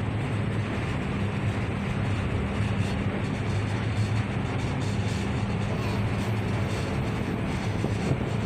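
Steady drone of a ship's engine, an even low hum under a constant rushing noise, heard from inside the vessel.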